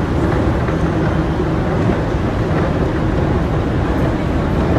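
Steady low hum and rumble of a passenger train standing at the station before departure.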